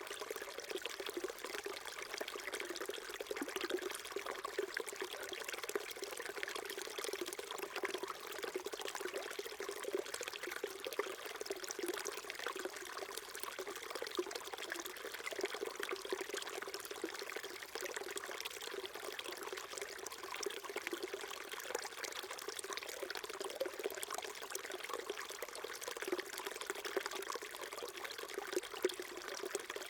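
A small stream flowing and trickling over stones, a steady babbling with a gurgling undertone.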